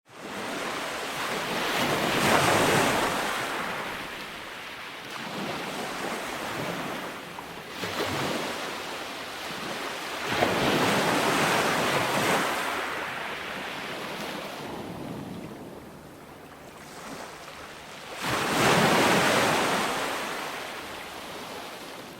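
Calm ocean waves washing onto a beach: three swells of surf about eight seconds apart, each building and then falling away.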